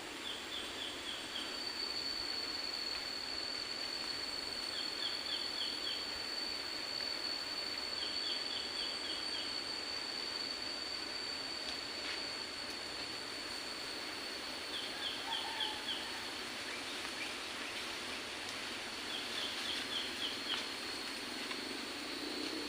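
Forest ambience: an even hiss under a steady high-pitched drone, with a bird call of a quick run of descending notes repeated about five times.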